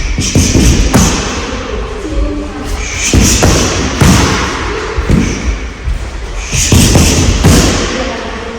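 Karate strikes thudding into a rolled-mat striking target, a dozen or so irregular impacts, several in quick pairs.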